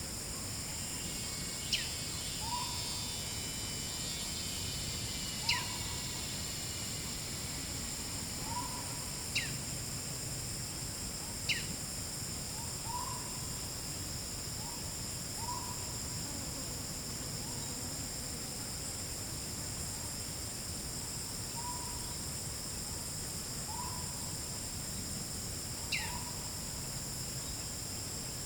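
Tropical forest ambience: a steady, high insect drone under short hoot-like notes repeated every two to three seconds. Five times, a sharp call sweeps down in pitch and stands out as the loudest sound.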